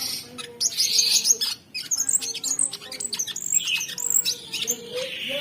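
Cucak sungkok songbird singing a dense, rapid song of sharp chirps, quick whistled glides and harsh rasping notes, with no pause.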